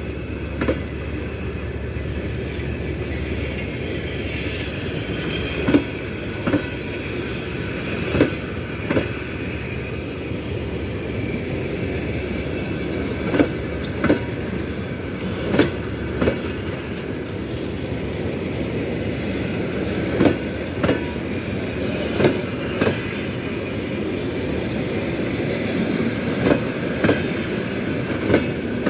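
Train wheels clattering over rail joints: steady rolling rumble with double knocks every few seconds, each pair a wheelset after wheelset crossing the same joint.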